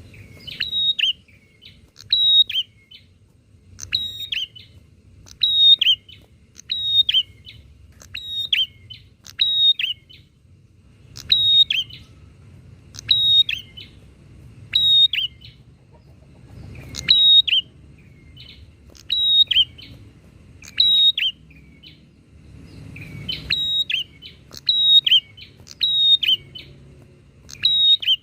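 Prinias (prenjak) singing back and forth: short, sharp, high chirps, mostly in quick pairs, repeated every second or two, over a faint low hum.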